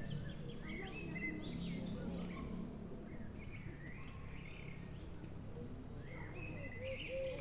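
Small birds chirping in short, scattered calls over a steady low background rumble, with clusters of chirps about a second in, in the middle and near the end.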